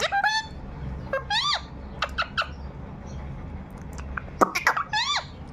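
Pet talking parrot calling: a string of short, high-pitched squawks and chirps, several with a pitch that rises and then falls, in small bursts about a second apart with gaps between.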